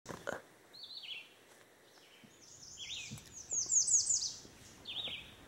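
Songbirds singing in woodland: short phrases of falling notes repeat every second or two, with a quicker run of high falling notes in the middle, which is the loudest part. A couple of soft knocks at the very start.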